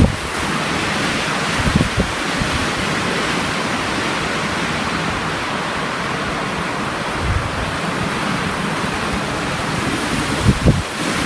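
Strong blizzard wind blowing as a steady rush, with brief low buffets of wind on the microphone near the end.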